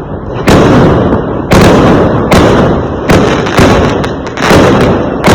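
Fireworks going off in a rapid series of loud bangs, about eight in all, roughly one every half second to a second. Each bang trails off in a rumble before the next.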